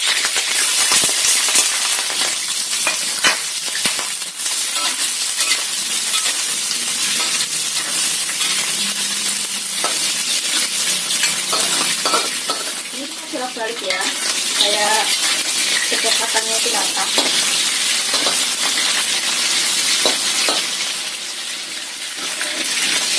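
Chicken pieces frying in hot oil in a wok over medium heat, sizzling steadily, with a metal spatula scraping and clicking against the wok as they are stirred and turned.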